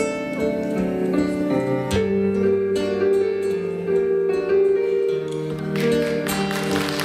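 Instrumental introduction to a song played on an electronic keyboard, a plucked, guitar- or harp-like melody over held chords. About six seconds in, audience applause starts under the music.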